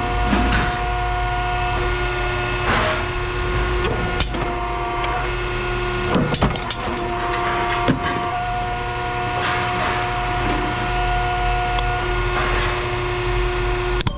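A steady mechanical hum with a few sharp knocks and clatters.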